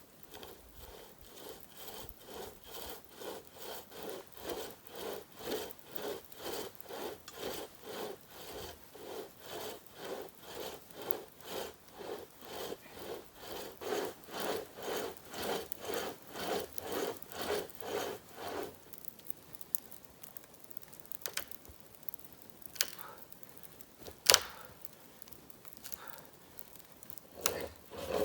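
Hand saw cutting through wood in a steady back-and-forth, about two strokes a second, stopping about two-thirds of the way through. A few sharp knocks follow, one of them loud, and the sawing starts again at the very end.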